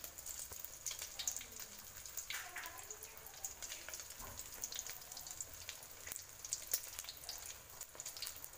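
Beaten egg frying in hot oil in a wok. The oil crackles and spits in many small, irregular pops over a soft sizzle.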